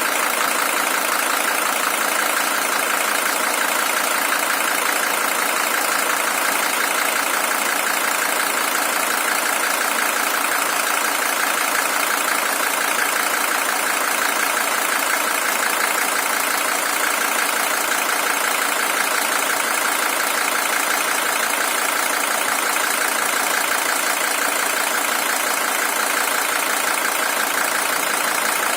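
Mercedes-Benz OM617 five-cylinder diesel engine in a W123 300TD idling steadily with an even diesel clatter. It is the original engine, with 620,000 km on it.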